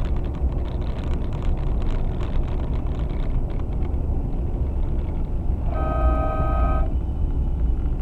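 Steady low rumble of a vehicle driving on the road, heard from the cab. About six seconds in, a vehicle horn sounds one blast of about a second.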